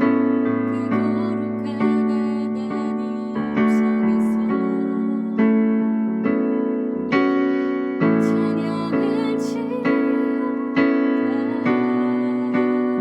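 Keyboard piano playing a slow worship song, sounding a new chord about once a second, each chord ringing and fading into the next.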